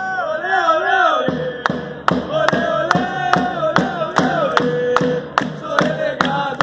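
Singing of a football chant over a steady drum beat of about two to three strikes a second.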